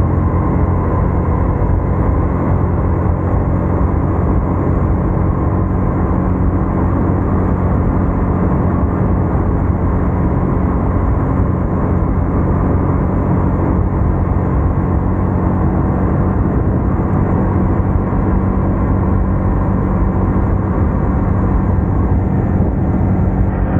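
Yamaha MT-15's single-cylinder engine and exhaust running under way at a steady speed, with wind noise rushing over the camera microphone.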